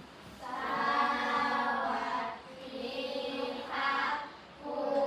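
A group of children's voices in unison, holding long drawn-out notes in three phrases.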